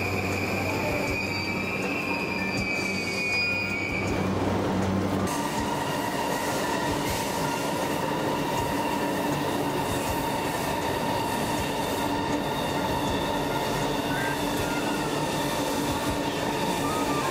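A Yamanote Line E235-series electric commuter train running past, with a high steady whine over wheel and running noise. About five seconds in, the sound cuts to a double-deck E4-series Max Shinkansen passing, its running noise steady with a lower whine.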